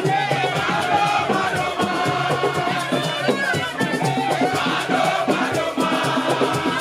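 A crowd singing and chanting together, with percussion beating under the voices.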